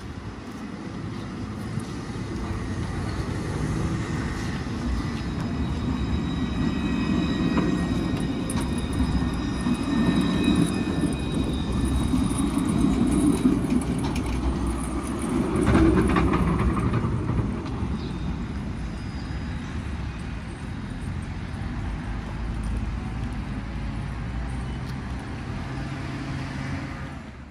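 Alstom Citadis 405 tram running on its rails, a continuous low rumble with faint steady high tones over the first half, growing louder to a peak about two-thirds through and then easing.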